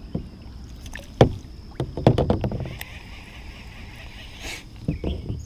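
Hollow knocks and bumps against the plastic hull of an Ascend 128T sit-on-top kayak as gear is handled, the loudest about a second in and a cluster of smaller ones around two seconds. After that comes a soft steady whir lasting a second or two as the fishing line is reeled in.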